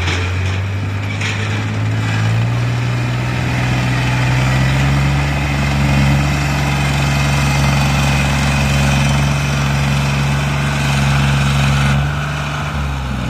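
Diesel engine running steadily. Its speed steps up about two seconds in and again a little later, holds, then drops back near the end.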